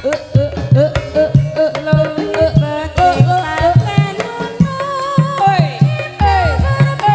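Live Banyumasan gamelan music for an ebeg dance: kendang hand-drum strokes in a steady rhythm under a sung, wavering vocal melody, with pitched metal instruments between.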